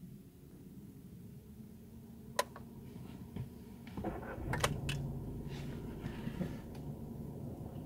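Skoda Rapid's 1.0 TSI three-cylinder turbo petrol engine (VW EA211) starting, heard from inside the cabin. There is a click about two and a half seconds in; at about four seconds the starter cranks briefly with a few clicks, the engine catches, and it settles into a steady low idle at about 1,000 rpm.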